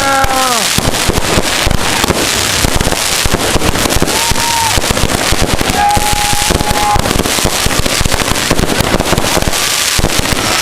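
Consumer fireworks going off in a rapid, continuous barrage of bangs and crackles, with no pause between them.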